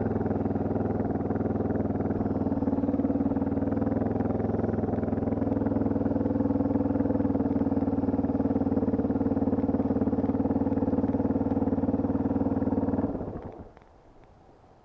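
Dirt bike engine running steadily at constant revs, then cutting out suddenly about thirteen seconds in.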